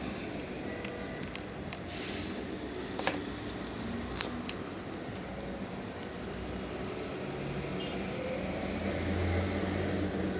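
Scattered sharp clicks and taps, several in the first four seconds, over a steady low hum. They fit small tools and plastic or metal computer parts being handled during disassembly. A low rumble builds near the end.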